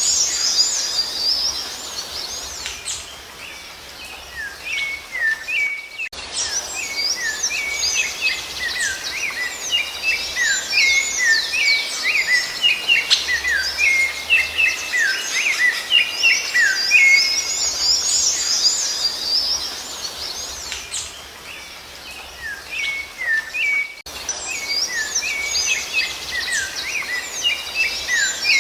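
Birds singing: many overlapping chirps and quick down-slurred whistles, dense and continuous, broken by brief abrupt gaps about six seconds in and again near the end where the recording is spliced.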